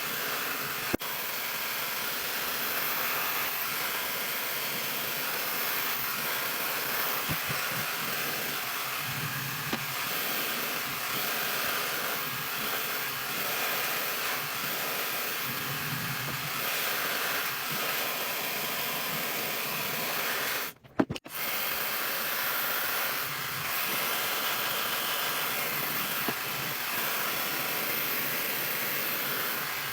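CrazyMar high-speed ionic hair dryer running steadily with a constant airy hiss while drying long hair extensions. It cuts out for about half a second around two-thirds of the way through, then carries on.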